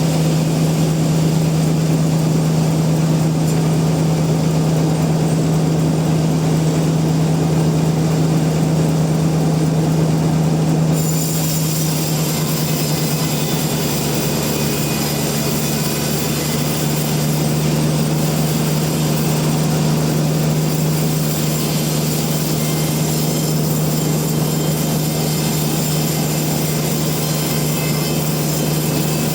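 Sawmill machinery running steadily with a constant low hum, the sound changing abruptly about eleven seconds in.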